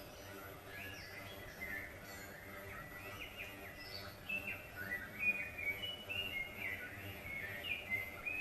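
Small birds chirping: many short, quick calls overlapping, busier and louder in the second half, over a faint steady hum.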